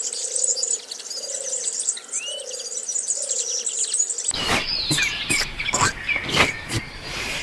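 Insects and birds chirping in a dense, high chorus, with a short rising bird chirp. About four seconds in it gives way abruptly to a louder scene with a run of sharp knocks among more chirps.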